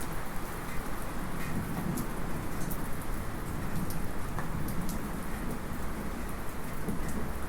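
Light rain falling steadily, with scattered small metallic drips, heard from inside a house. Under it, distant thunder rumbles low, swelling and fading.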